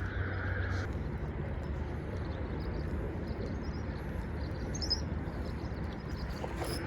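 Birds chirping faintly over a steady low outdoor rumble.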